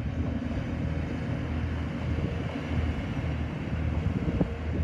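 TransPennine Express diesel multiple unit running past through the station: a steady low engine and wheel rumble, with one sharp click near the end.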